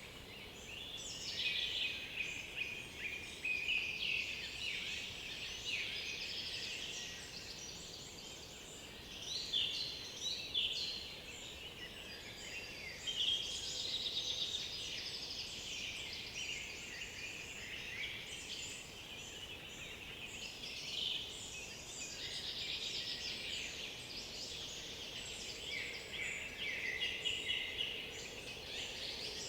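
Several woodland songbirds singing at once: overlapping songs, chirps and rapid trills that go on without a break.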